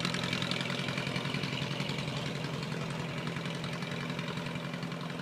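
1926 Ford Model TT truck's four-cylinder engine running with a steady, rapid, even beat, slowly growing a little fainter.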